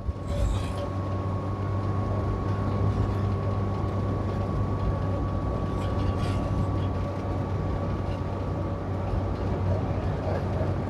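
Cabin noise of a 1992 Winnebago Lesharo, a small motorhome built on a Renault Trafic van, driving at highway speed and being pushed for more speed. It is a steady low engine-and-road drone with a thin, steady high whine over it.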